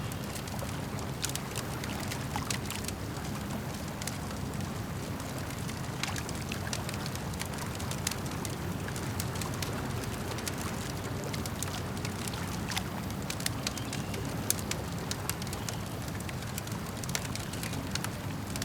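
Campfire burning with irregular sharp crackles and pops over a steady low rush, with lapping lake water underneath.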